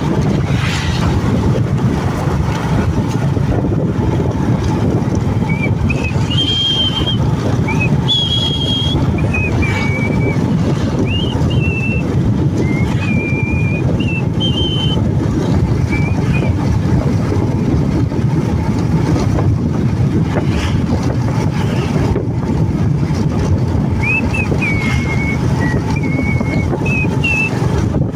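Motorcycle riding at speed: steady engine and road rumble under heavy wind noise on the microphone. Short, high whistle-like tones break in over the rumble in two stretches.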